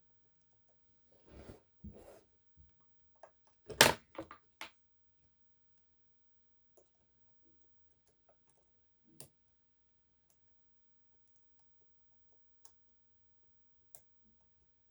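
Lock pick and tensioner working inside an EVVA 3KS high-security lock: short metallic scrapes and clicks, a cluster in the first few seconds with the loudest click about four seconds in, then a few faint, sparse ticks.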